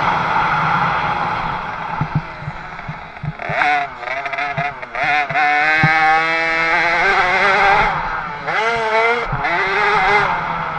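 50cc two-stroke motocross bike engine revving, its pitch rising and falling as the throttle opens and closes, twice, with a few sharp knocks between.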